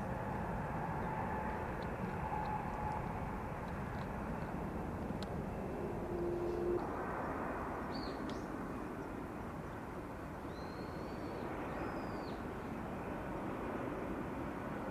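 Steady rumble of distant jet airliner engines at the airfield, its tone shifting about seven seconds in. A short low hoot sounds about six seconds in, and a few brief bird calls come in the second half.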